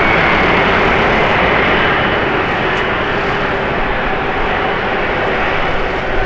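Jet airliner engines running loud and close, a dense steady noise carrying a high whine that slowly falls in pitch; the sound eases slightly after about two seconds.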